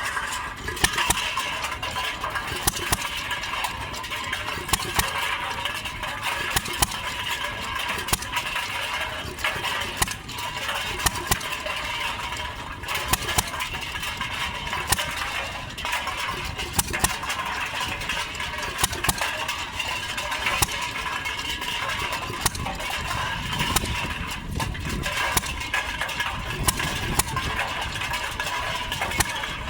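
Stover hit-and-miss engine running, with sharp firing pops every second or two, driving a concrete mixer whose drum keeps up a steady rattle of soda cans tumbling inside.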